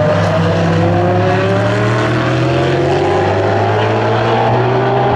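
Engines of several endurance race cars accelerating, their pitch rising slowly, over a steady low drone.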